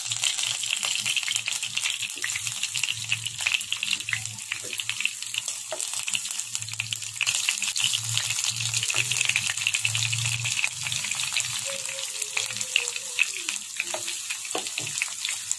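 Cornflour-coated chicken wings sizzling in hot oil in a frying pan: a loud, steady sizzle full of spitting crackles.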